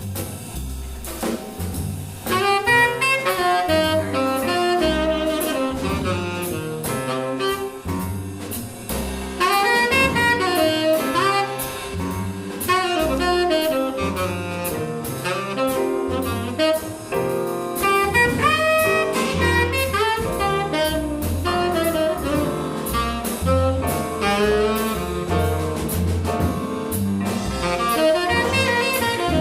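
Live jazz quintet playing: a horn melody line, entering about two seconds in, over double bass, drum kit with cymbals and piano.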